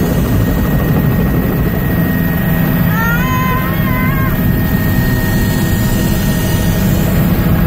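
Helicopter engine and rotor noise heard from inside the cabin: a loud, steady, low drone. About three seconds in, a brief high-pitched wavering tone sounds over it for a little over a second.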